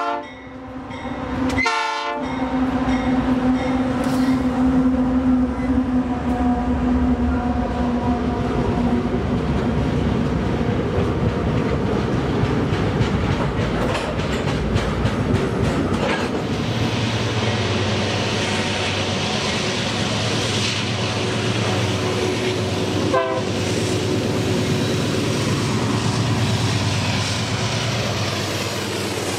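Freight train horn sounding briefly near the start, then a diesel locomotive passing and a long string of freight cars rolling by, wheels clicking and rumbling over the rails.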